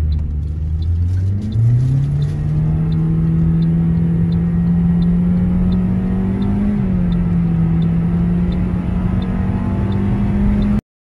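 Toyota Corolla Grande's engine at full-throttle acceleration from a standstill, heard inside the cabin, on old engine oil before a tune-up. The revs climb quickly over the first two seconds, then hold a steady high drone that rises slowly, with a brief dip about six and a half seconds in. The indicator relay ticks steadily throughout, and the sound cuts off suddenly near the end.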